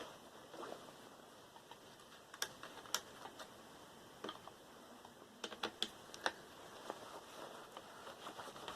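Faint, scattered sharp clicks and taps of small hard plastic and metal parts being handled while a cooling fan is taken off a computer motherboard. There are a few single clicks, then a quick cluster of them a little past the middle.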